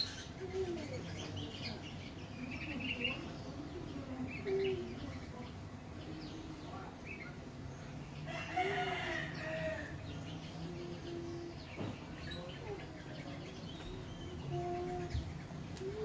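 Scattered short bird chirps and calls, with one longer, louder call about nine seconds in.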